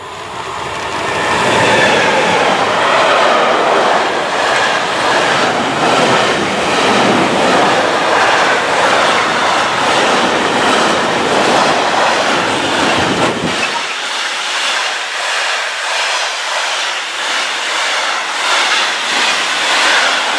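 Intermodal freight train of container and tank-container wagons passing close by, its wheels rolling steadily with a regular clatter. About two-thirds of the way through, the deep rumble drops away abruptly while the rolling and clatter go on.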